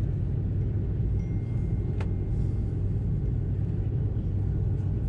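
Steady low cabin rumble of an Airbus A330-300 taxiing after landing, its Rolls-Royce Trent 700 engines at idle, with a single sharp click about two seconds in.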